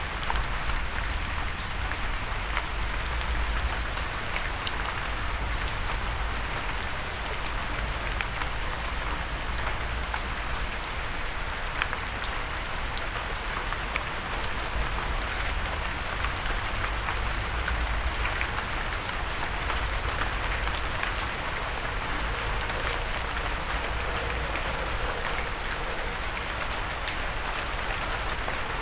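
Steady rain falling on a surface, a continuous patter with scattered individual drop ticks and a low rumble underneath.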